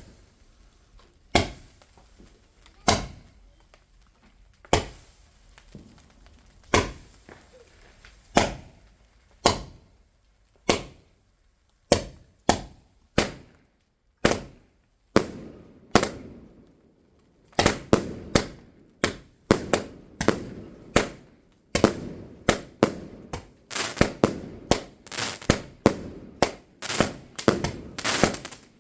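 Fireworks going off: single sharp bangs every second or two, then from about two-thirds of the way through a quicker, irregular run of bangs, each trailing off briefly.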